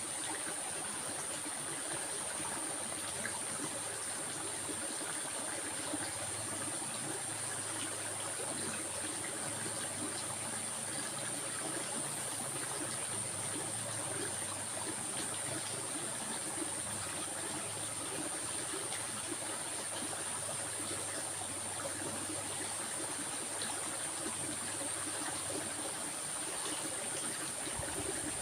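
Stream water running steadily, with a constant high-pitched whine above it.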